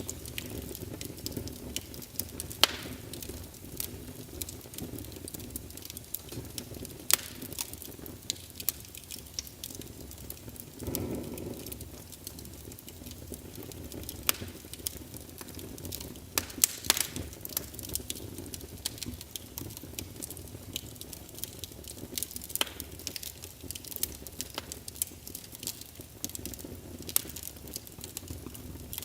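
Wood fire burning in a fireplace: a steady low rush of flame with frequent sharp, irregular crackles and pops, and a brief surge of flame noise about eleven seconds in.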